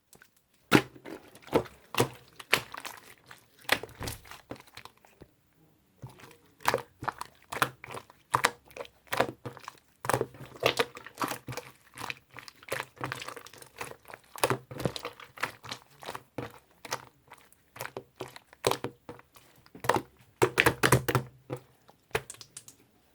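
Irregular crinkling, clicks and light knocks, like something being handled close to the microphone, with a brief pause about five seconds in.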